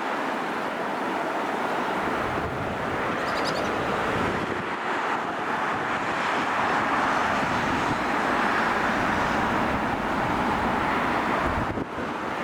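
Garbage truck running, its engine and road noise swelling and fading, with wind buffeting the microphone.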